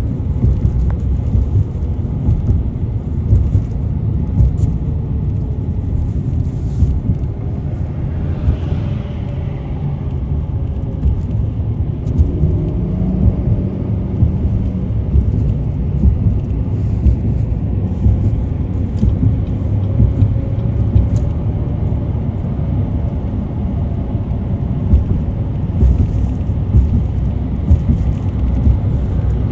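Steady low rumble of a car driving on the road, with frequent small crackles over it.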